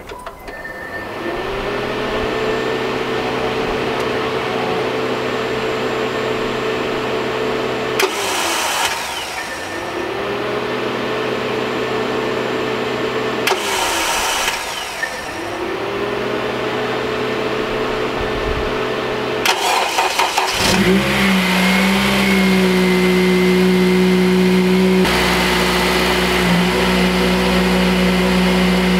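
Honda Civic Type R's K20 engine being started: three spells of steady cranking, each several seconds long and broken by short gaps, before the engine catches about twenty seconds in and settles into a steady idle. The freshly fitted auxiliary belt runs without squeal or catching.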